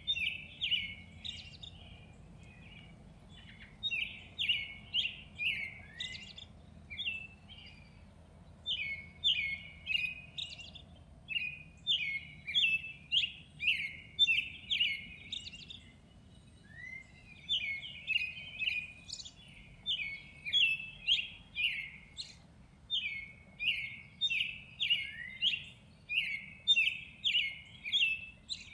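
Songbirds chirping: quick runs of short, high chirps, about two a second, in bouts of several seconds with short pauses between.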